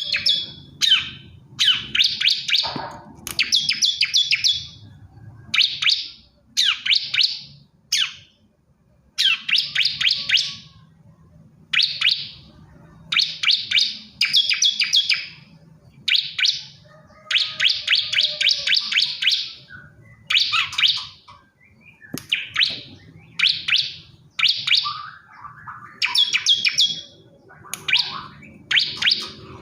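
Male bar-winged prinia (ciblek kristal) singing: short phrases of rapid, high chirping notes, repeated about once a second with brief gaps between them.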